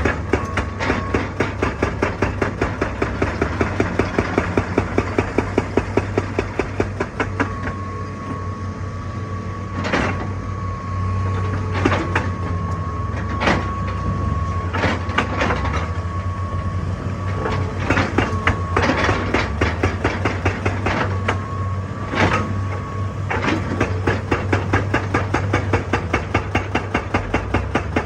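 Excavator's hydraulic rock breaker hammering in a rapid, even rhythm over the low drone of the machine's engine, with several louder single clanks in the middle.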